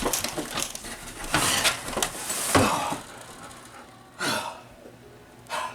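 A person panting and gasping heavily, a run of noisy breaths followed by two short, separate gasps.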